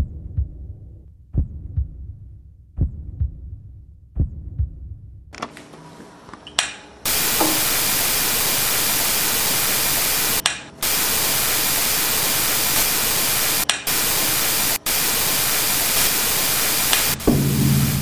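Slow, heartbeat-like double thumps about every 1.4 seconds. Then, about seven seconds in, loud television static hiss takes over, cutting out for an instant three times. A low hum comes in near the end.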